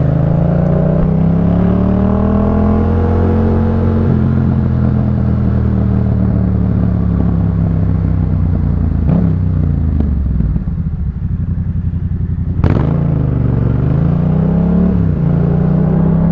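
Yamaha MT-07's parallel-twin engine through a Jeskap K4 full exhaust, accelerating with the revs climbing and then dropping sharply at gear changes about four seconds in and again near the end. In the middle it runs at lower revs off the throttle with a fluttering, pulsing note, broken by one sharp crack before it pulls up through the revs again.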